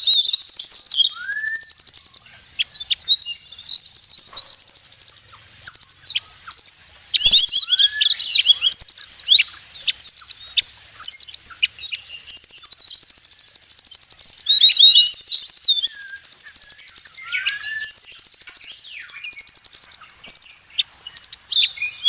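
Recorded bird calls used as a lure for migratory birds: long runs of fast, high chattering trills, broken now and then by short rising whistles.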